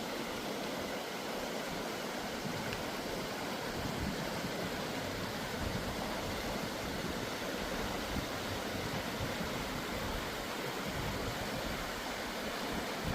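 Rushing creek water: a steady, even noise.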